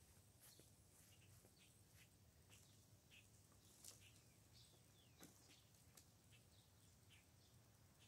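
Near silence, with faint, scattered bird chirps and a few soft ticks.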